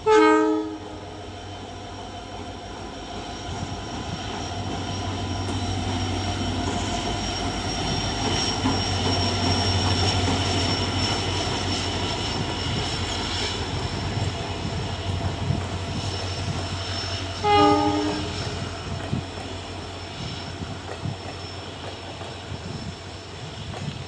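EMD diesel locomotive giving a short horn blast, then its engine drone swelling as it draws near and runs past. A second short horn blast comes about three-quarters of the way through, and the sound then eases off.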